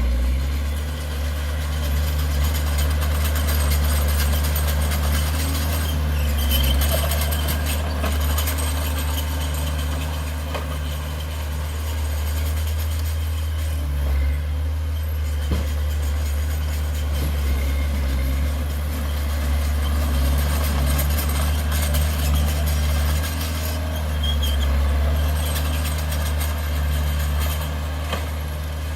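Heavy diesel engine of earthmoving machinery running steadily with a deep, low hum, with a few faint knocks.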